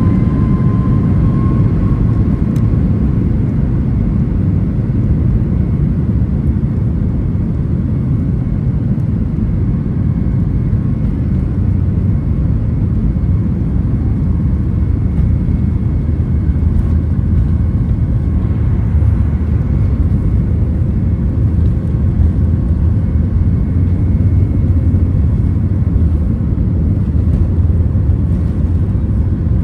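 Boeing 737 MAX 8 cabin noise at takeoff power: the CFM LEAP-1B turbofans and rushing air make a steady, loud low rumble, with faint steady whine tones above it.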